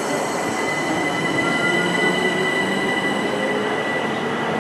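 An electric passenger train running through the station: a steady rumble of wheels on rails with a steady high-pitched tone over it, and a few faint tones sliding in pitch lower down.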